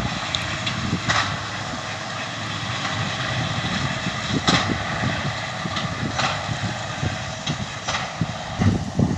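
John Deere tractor and baler working straw: a steady engine noise with a few short knocks from the machinery.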